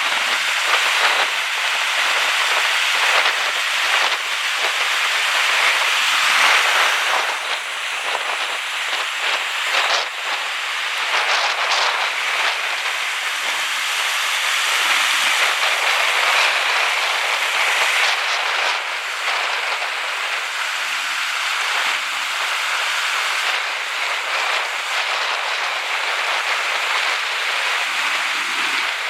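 Steady rushing hiss of water, loud throughout with small swells and dips.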